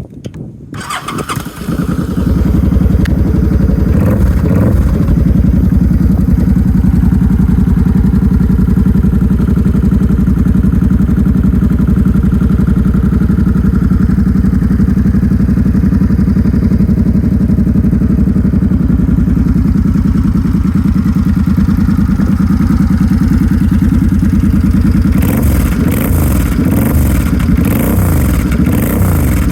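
Suzuki VZ800 Intruder's V-twin engine through Cobra aftermarket exhausts, started about a second in and then idling steadily. Near the end the throttle is blipped several times, the revs rising and falling.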